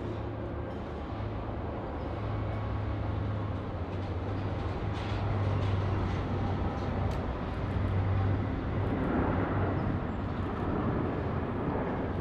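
Jet airliner engines on an arriving flight, a steady low rumble that grows somewhat louder around the middle.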